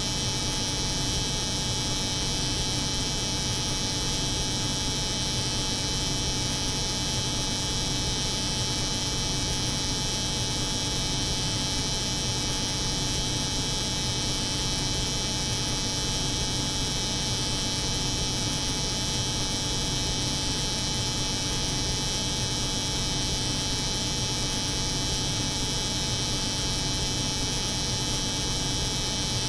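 Layered steady drone of a cold room's hum and an electric hair clipper running continuously, with a bright high hiss and a low hum that never change.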